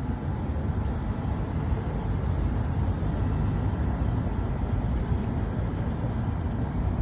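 Steady low rumbling noise with no clear events in it.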